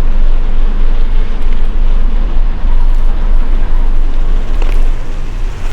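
Wind rushing over an Insta360 X5 camera's microphone on a moving bicycle: a loud, steady low rumble with a noisy hiss over it.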